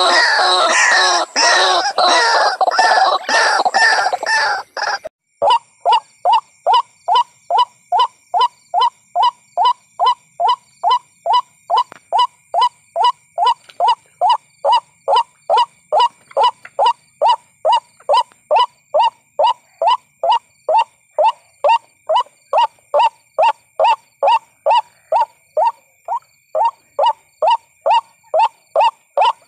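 White-breasted waterhen calls played as a bird-trapping lure. For about the first five seconds there is a dense run of harsh, overlapping calls. Then it cuts off abruptly and gives way to a steady series of short single notes, about two a second.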